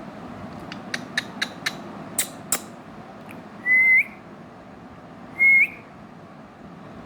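Indian ringneck parrot giving a quick run of short clicks and chirps, then two loud short whistles, each held level and flicking upward at the end.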